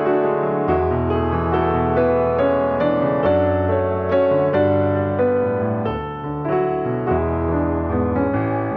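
Soft piano music: slow chords and melody notes, with no rain noise standing out.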